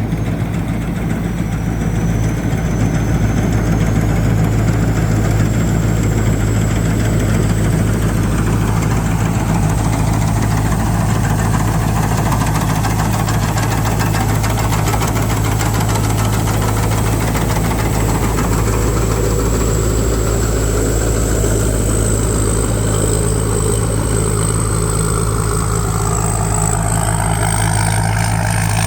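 Rice combine harvester's engine running steadily while harvesting, with a thin high whine above the low drone; the engine is carrying the heavy crop without labouring.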